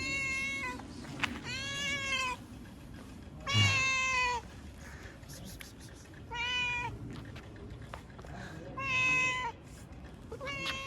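A cat meowing repeatedly: about six meows, each half a second to a second long, with gaps of one to two seconds between them.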